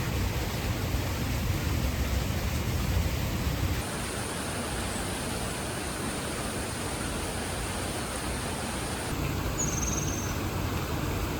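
Steady rushing of flowing water, an even noise with no rhythm. About four seconds in the deep part of the sound drops away, leaving a thinner hiss, and it fills out again later. A small bird gives a brief high chirp near the end.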